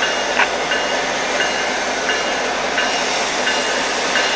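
A train passing close by on the track, a steady rolling noise with a regular click and brief high ring repeating about every three-quarters of a second as the wheels go by.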